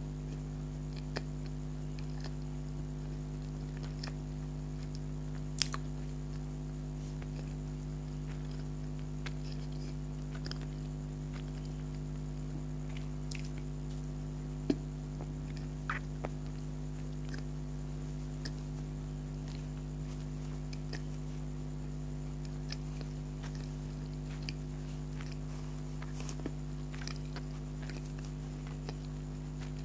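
Close-miked chewing of soft doughnut, with scattered small wet mouth clicks and a few sharper clicks, over a steady low hum.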